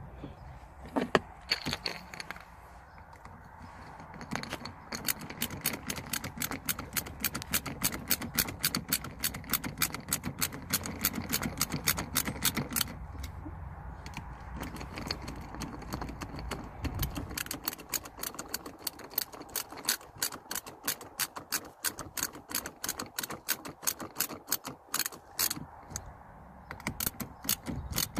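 Torx T8 screws being driven into the plastic base of a Ford Galaxy handbrake handle with a screwdriver, a fast, even clicking of about five clicks a second that starts a few seconds in.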